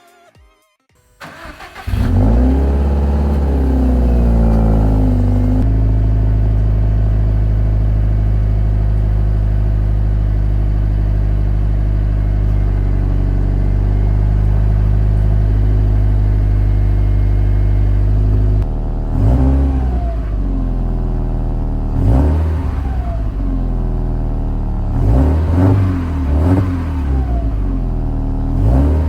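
Subaru Impreza WRX STI (GRB) flat-four boxer engine starting about a second in. It runs at a wavering fast idle that settles into a steady idle, then gets several short throttle blips near the end, each revving up and falling back, heard through the exhaust.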